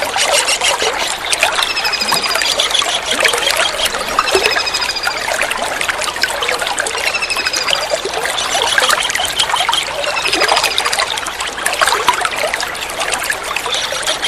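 Water trickling steadily, with a kingfisher's high, thin call (a quick run of slightly falling notes) repeating about every two to three seconds over it.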